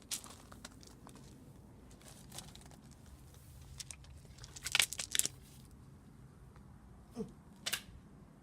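Cardboard box being struck and crushed with a vacuum cleaner pole: a few scattered crunches and knocks, the loudest two close together about five seconds in.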